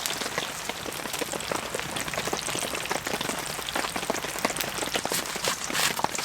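Heavy rain pattering steadily on the tent fabric, a dense hiss full of many small drop ticks.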